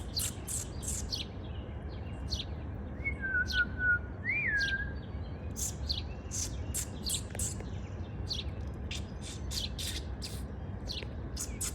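A small songbird chirping in quick, repeated short notes, with a brief lower whistle that rises and falls about four seconds in, over a steady low rumble.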